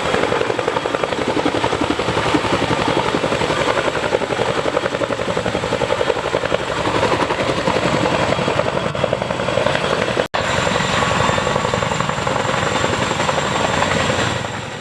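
Boeing CH-47 Chinook tandem-rotor helicopter in flight: a fast, steady rotor beat with a thin high tone above it. The sound breaks off for an instant about ten seconds in and fades near the end.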